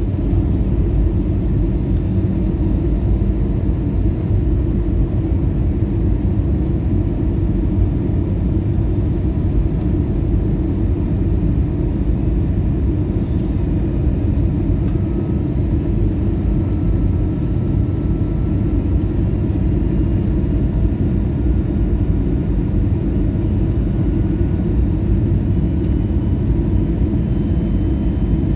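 Steady cabin noise of an Airbus A320-200 on final approach: the low rumble of its CFM56 engines and the rush of airflow heard from inside the cabin, with no change in level.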